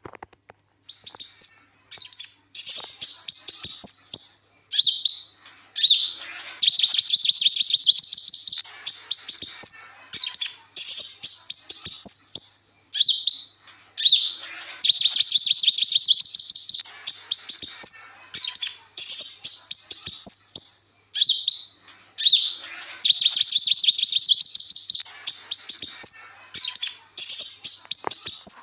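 Sunbird (Indonesian 'kolibri ninja') singing a loud, high, fast song of rapid chirps. A sustained buzzing trill about two seconds long comes back three times.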